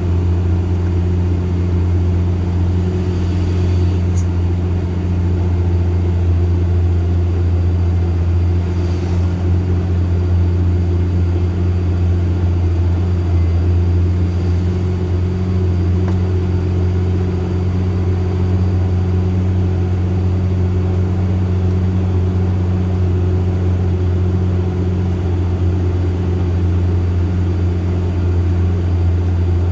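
Truck diesel engine running with a steady low drone while climbing a steep grade.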